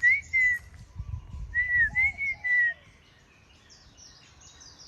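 Clear whistled notes: a short phrase at the very start, then a run of three or four arching notes about a second and a half in. Faint high bird chirps sound behind.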